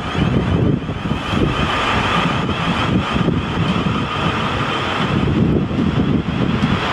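South Western Railway electric multiple unit running out along the platform line, a steady rumble and faint motor hum almost buried under heavy wind buffeting on the microphone.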